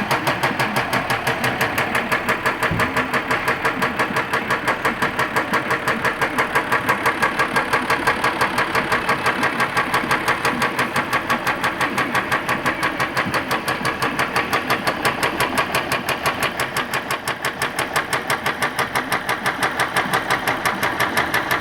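3.0-litre diesel engine idling with a severe knock, a rapid, even beat that runs steadily throughout.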